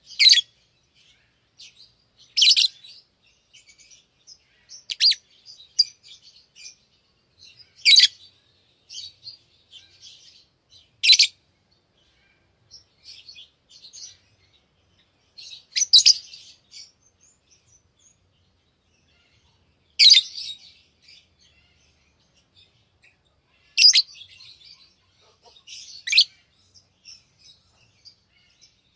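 Pet lovebirds chirping: short, loud, high calls every two to four seconds, with quieter chatter in between.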